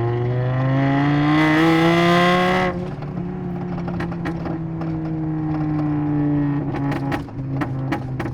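Tuned Mk6 VW Golf 2.5 inline-five accelerating hard, heard from inside the cabin with the windows up: the engine note climbs for about three seconds. Then the throttle closes and the note falls slowly while the exhaust crackles and pops on overrun, the pops that the new tune adds.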